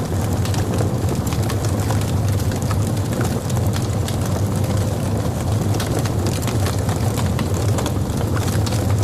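Log fire burning in a fireplace: a steady low rumble with frequent, irregular crackles and pops from the burning wood.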